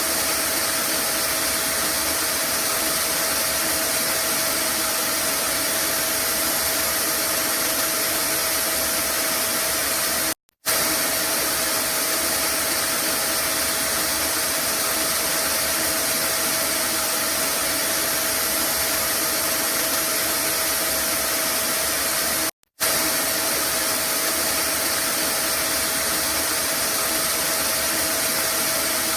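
Vacuum cleaner motor running steadily, a continuous rushing whir with a fixed hum, looped as white noise; it cuts out for a split second twice, where the loop restarts.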